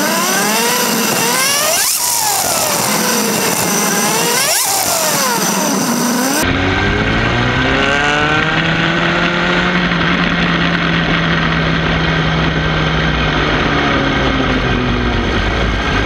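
Sport-bike engines revving up and down during a group ride, the nearest a Suzuki GSX-R750 inline-four, with sharp drops in pitch twice as the revs fall. About six seconds in the sound changes abruptly to a deeper, steadier engine drone with slow rises and falls in pitch.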